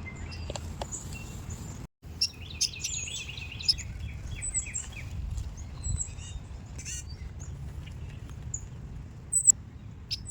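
Several songbirds chirping and calling, with quick trilled runs of short notes. A brief dropout comes about two seconds in, and a loud sharp chirp comes near the end.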